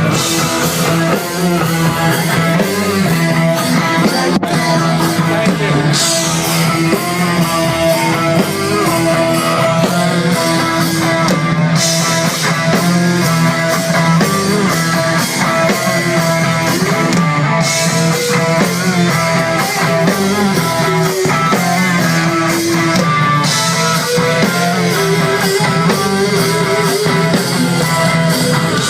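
Live rock band playing: guitar, bass and drum kit, with cymbal crashes about every six seconds.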